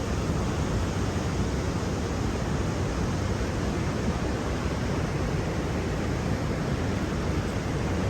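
Steady, even rushing noise with no distinct events, a continuous nature ambience.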